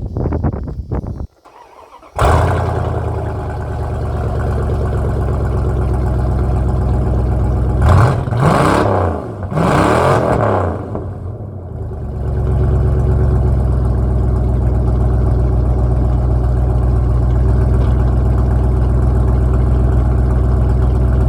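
A 1997 Ram 1500's 5.2-litre (318) V8 on true dual straight pipes fires up about two seconds in and runs loud. It is revved twice, about eight and ten seconds in, then settles into a steady, rumbling idle.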